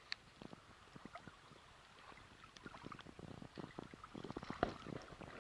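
Faint water lapping and gurgling at the shoreline, with scattered small clicks and crackles, a little fuller in the second half.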